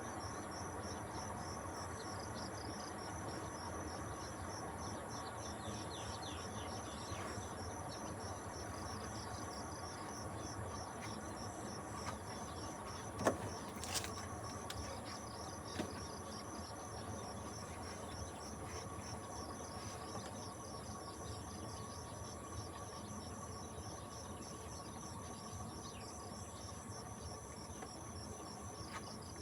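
Insects chirping steadily in a continuous pulsing trill, with a steady higher buzz behind it. A few faint clicks and knocks come about halfway through.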